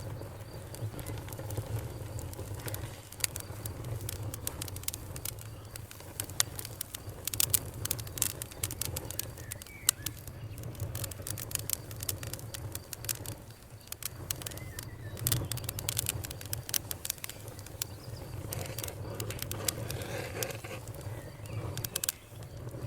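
Wood fire crackling: a steady low rumble of burning with many sharp irregular pops and snaps throughout.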